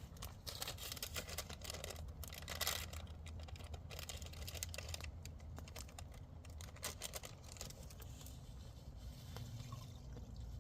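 Wood campfire crackling and popping: dense, irregular clicks over a steady low rumble.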